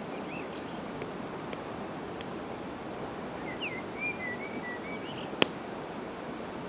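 Campfire of split evergreen wood crackling, with a few faint ticks and one sharp pop about two thirds of the way through, over a steady rushing river. A small bird chirps briefly near the start and gives a short run of chirps in the middle.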